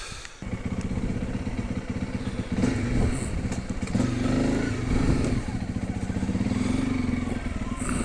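Honda CRF300L's single-cylinder four-stroke engine running, coming in suddenly about half a second in, its pitch rising and falling a few times as the throttle is worked.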